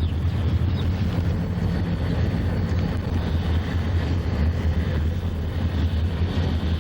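Diesel freight locomotive's engine running at a steady low drone, with wind noise on the microphone.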